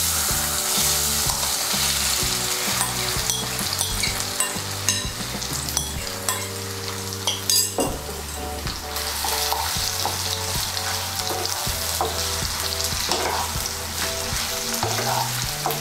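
Egg-coated soya chunks sizzling as they deep-fry in hot oil in a kadai, with sharp clicks and scrapes of a spatula turning them.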